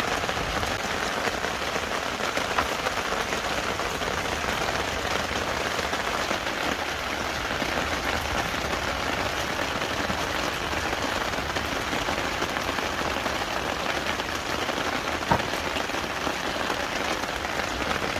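Steady rain falling and pattering on surfaces, with one sharp tap about fifteen seconds in.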